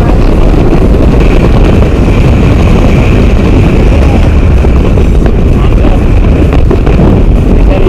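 Loud, steady roar of wind rushing over the camera microphone during a tandem skydive, with no break or change.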